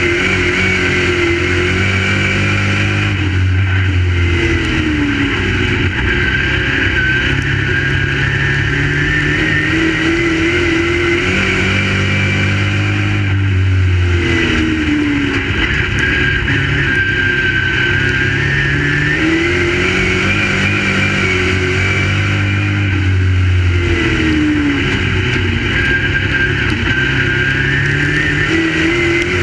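Crate late model's V8 engine at racing speed on a dirt oval, its pitch rising and falling in a cycle that repeats about every ten seconds, lap after lap.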